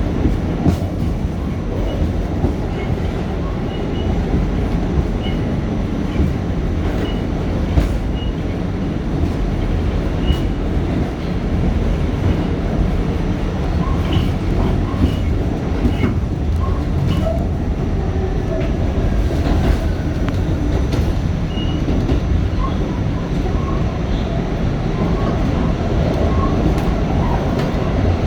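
Inside a moving R46 subway car: a steady low rumble of wheels on track, with scattered irregular clicks and knocks from rail joints.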